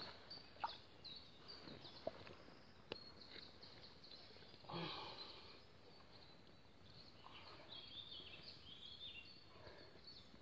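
Faint songbirds calling in the background: short, high chirps and whistles, more frequent in the second half. A few light clicks early on and a short rustle about five seconds in.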